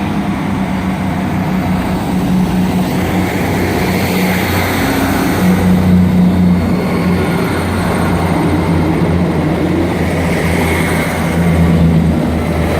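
Two coupled Class 158 diesel multiple units going through the station, their underfloor diesel engines giving a steady, loud low hum with slowly shifting engine notes.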